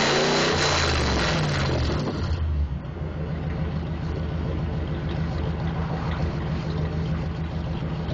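1992 Camaro RS's LO3 V8 running through a straight-pipe exhaust with no muffler or catalytic converter. It revs and drops back over the first two seconds or so, then settles into a steady, evenly pulsing idle.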